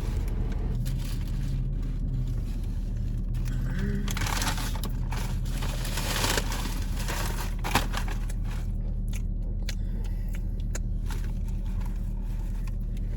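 Idling car engine heard from inside the cabin: a steady low hum, with scattered rustling and small clicks and one sharp click about eight seconds in.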